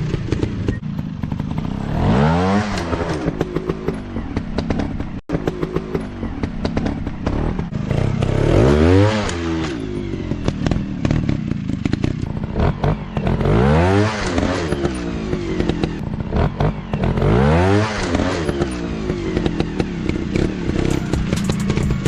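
Off-road trail motorcycles, single-cylinder four-stroke dirt bikes, revving up hard and backing off four times, with clattering and scraping in between.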